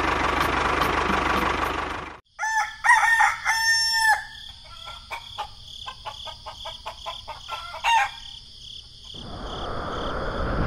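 A rooster crowing once, followed by several seconds of soft, short clucking calls. Before it, a steady engine-like noise cuts off about two seconds in, and a hiss rises near the end.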